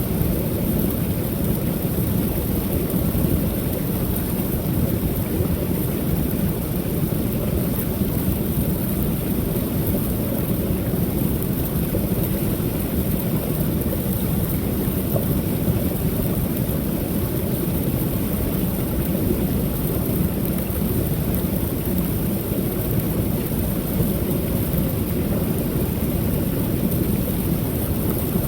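Creek waterfall: falling water rushing steadily, with a deep, even rumble.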